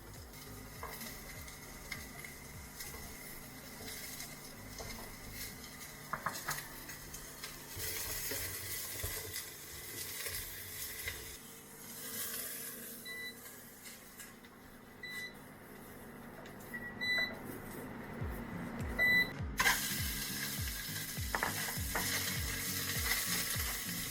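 Chopped onion and celery sizzling in oil in a frying pan as they are stirred, with scattered clicks of the utensil against the pan. The sizzle grows louder in the last few seconds.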